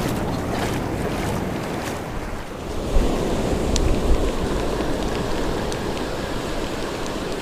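Ocean surf washing onto the beach, with wind buffeting the microphone in low gusts about three and four seconds in.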